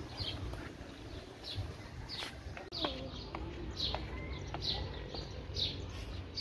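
Small birds chirping, short high calls repeating about once or twice a second, over a steady low rumble.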